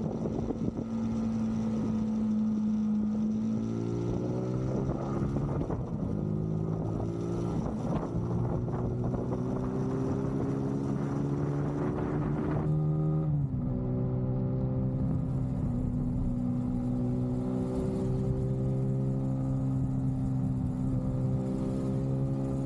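Zontes motorcycle engine under way. Its pitch falls at a gear change about four seconds in, climbs steadily as the bike accelerates, falls sharply at another upshift about thirteen seconds in, then holds at a steady cruise. Wind rushes over the microphone throughout.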